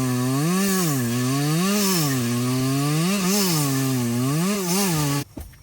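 Chainsaw engine revving up and down over and over, about once a second, then cutting off abruptly near the end.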